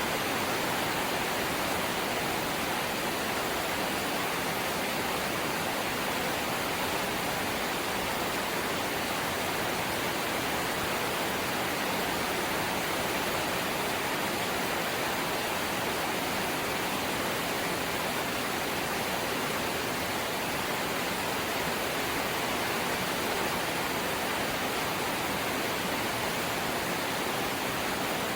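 Steady heavy rain drumming on a corrugated zinc roof, a constant even hiss with no breaks.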